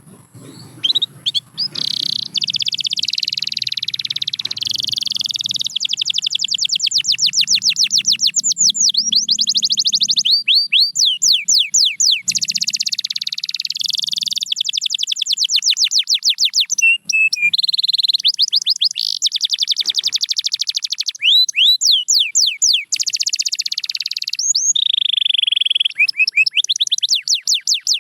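Domestic canary singing a long, continuous song of fast trills and rolls: rapid runs of repeated high notes and quick sweeping whistles, with brief breaks between phrases.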